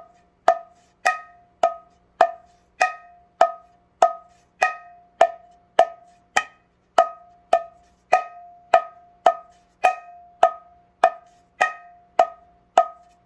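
Mridanga played with sharp index-finger "nak" (chutki) strokes, a crisp snap on the drumhead. The strokes repeat at an even pace of a little under two a second, each with a short pitched ring.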